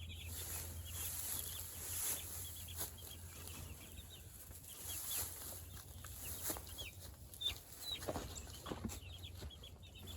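Flock of meat chickens clucking and peeping, many short calls overlapping.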